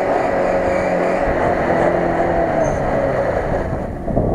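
Lada Niva's engine running steadily under load as the car wades through water and mud, easing off slightly near the end.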